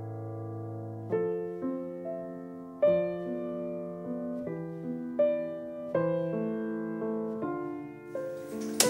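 Piano music: a held low chord, then a slow melody of single notes and chords, a new one struck about every half second to second and left to ring. A sharp crack near the end.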